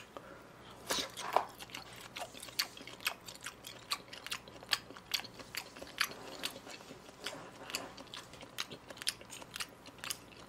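A person chewing a mouthful of raw beef sashimi close to the microphone: many short, irregular mouth clicks and smacks, a few each second.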